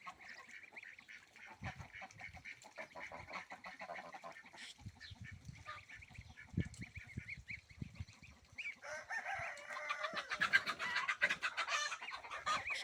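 Farmyard ducks and chickens calling, with scattered calls at first and a louder, busier flurry of calling in the last few seconds.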